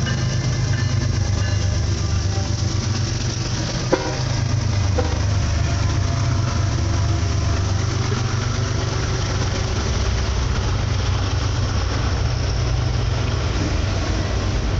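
Freight train passing close by: a steady low rumble of diesel locomotive engines and rolling wheels on the rails, with a single sharp knock about four seconds in.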